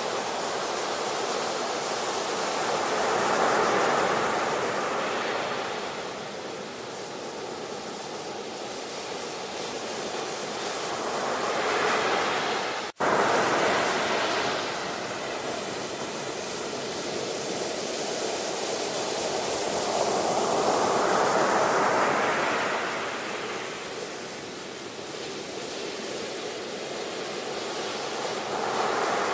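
Ocean surf: waves breaking and washing up in a steady rush that swells and ebbs about every eight to nine seconds. There is a split-second break in the sound about halfway through.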